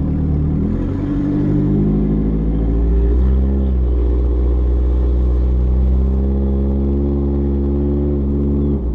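Turbocharged Hyundai Sonata engine accelerating at low revs, around 2,000 RPM: the pitch rises, drops at a gear change about three seconds in, rises again, then holds steady before falling away near the end.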